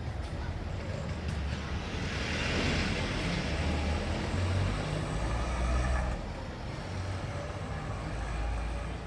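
A road vehicle passing in street traffic: its engine rumble and tyre noise swell for a few seconds, then fade, over steady traffic background noise.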